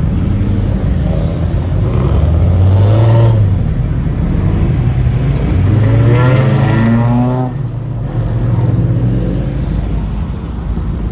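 Car engine revving hard twice, about two seconds in and again around six seconds, each rev rising and falling in pitch over a steady low engine drone.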